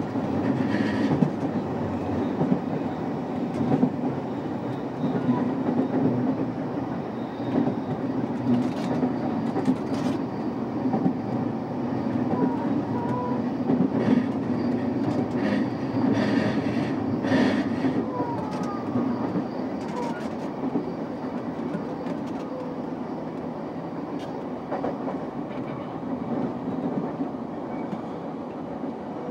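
Cabin running noise of a JR East E233-5000 series electric commuter train: a steady rumble and hum with the clack of wheels over rail joints. The noise eases off through the second half as the train slows for a station stop.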